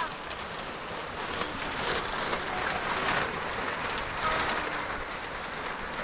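Rain falling on a tarpaulin shelter roof: a steady hiss with fine ticks of drops.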